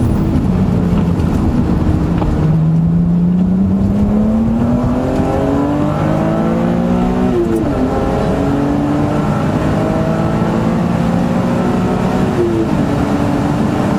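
BMW Z3 M Coupe's straight-six engine heard from inside the car, accelerating hard with its pitch climbing steadily. The pitch drops sharply at upshifts about seven seconds in and again near the end, over steady road and wind noise.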